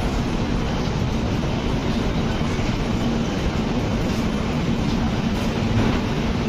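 Passenger express train arriving along a station platform: a steady rolling rumble with a constant low hum, getting slightly louder near the end.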